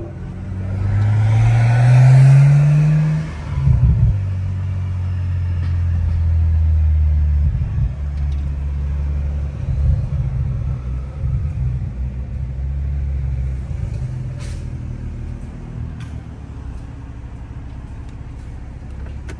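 Straight-piped, catless-downpipe Toyota A90 Supra's turbocharged B58 inline-six accelerating hard, its note rising for about two seconds. A short rough burst follows about four seconds in, then a steady low drone that slowly eases off.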